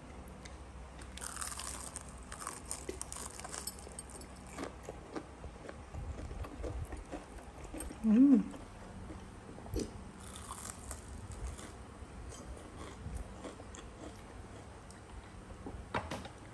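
Biting into and chewing a crispy panko-breaded chicken wing: crackly crunching bites about a second in and again around ten seconds in, with softer chewing in between. A short hummed vocal sound around eight seconds in is the loudest moment.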